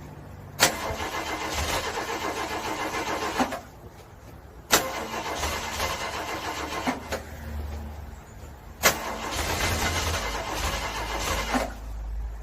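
Car engine being cranked in the cold three times. Each try opens with a sharp click as the starter engages, then runs for about three seconds of rhythmic cranking and stops without the engine catching.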